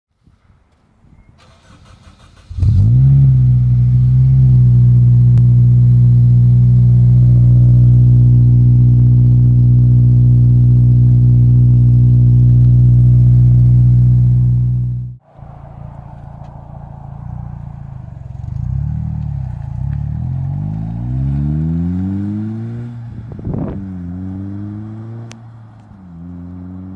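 Acura RSX Type S's 2.0-litre K20 four-cylinder through an Invidia N1 cat-back exhaust. It starts about two and a half seconds in, flares, then holds a steady loud drone until it cuts off abruptly around the middle. After that, more quietly, it is revved in several rising sweeps, with a quick blip near the end.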